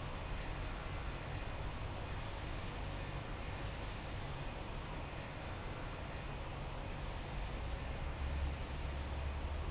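Distant jet aircraft engines, a steady low rumble with an even hiss above it.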